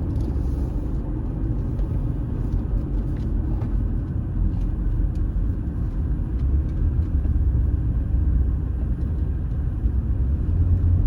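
Car road noise heard from inside the cabin on a dusty unpaved detour road: a steady low rumble of tyres and engine, with a few faint scattered ticks.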